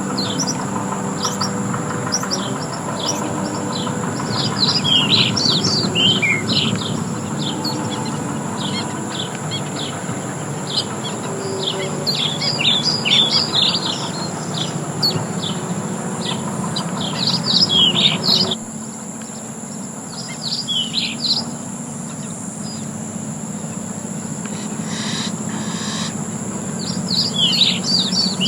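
Songbirds chirping and calling busily, many short quick notes in clusters, over a steady low background noise that drops away suddenly about two-thirds of the way through.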